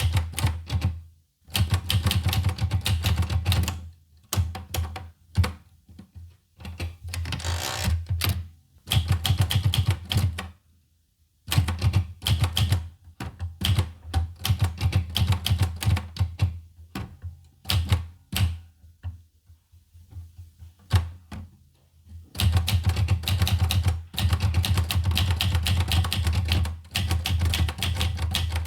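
Olivetti Lettera 25 manual portable typewriter being typed on: runs of rapid key strikes broken by short pauses, with a brief rasping sound about a quarter of the way through.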